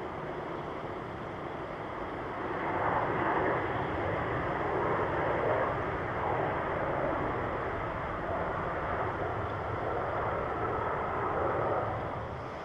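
Jet engine noise from a Japan Airlines Boeing 737-800 airliner moving past on or near the runway: a steady rushing sound that swells about two seconds in, holds, and drops away just before the end.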